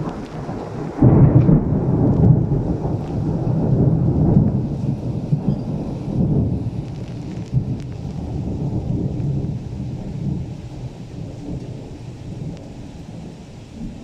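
A long roll of thunder that breaks suddenly about a second in, rumbles loudest over the next few seconds, then slowly dies away, over the steady hiss of heavy rain.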